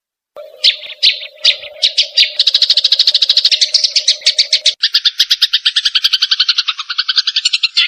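Grey-cheeked bulbul (cucak jenggot) and sparrow calling in a fight: a harsh, rapid chatter. It begins half a second in with a few spaced notes, then speeds into a fast, even run of about ten notes a second, which drops lower in pitch just past the middle. A steady low hum runs under the first half and stops where the pitch drops.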